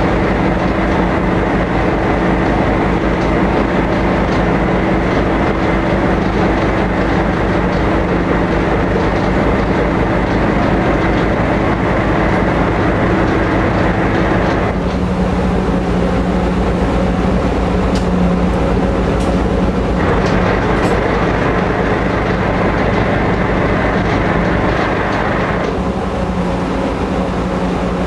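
Steady loud drone of a high-speed passenger ferry's engines, heard aboard. The hissing upper part of the noise cuts out about halfway through, comes back some five seconds later, and drops away again near the end.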